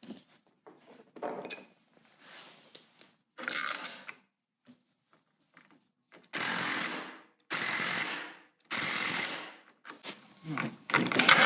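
Impact driver hammering a socket through a socket adapter in short runs of about a second, three in a row, then a louder run near the end. Lighter clicks and rattles come first, as the socket and adapter are handled.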